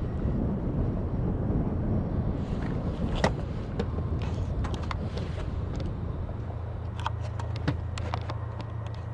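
Tugboat's diesel engine, a low steady rumble across the water, settling into a steadier hum about two-thirds of the way through. A handful of sharp clicks sound in the middle.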